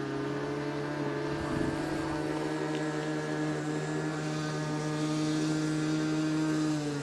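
Radio-controlled model aircraft engine running steadily at high revs with a buzzing drone. Its pitch drops as it is throttled back right at the end.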